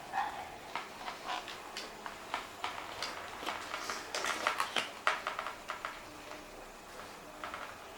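Irregular clicks and rustles of hands handling the toy helicopter and its packaging, denser in the middle seconds.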